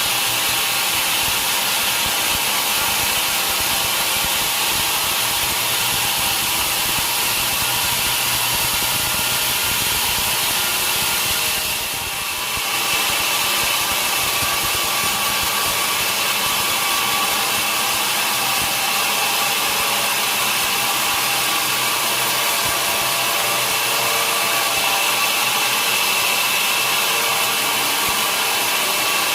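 Sawmill saw running steadily through a log, with a steady high whine over the cutting noise. The sound dips briefly about twelve seconds in.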